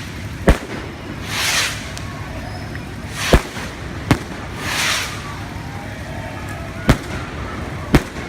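Fireworks going off: five sharp bangs, irregularly spaced, with two short hissing rushes in between.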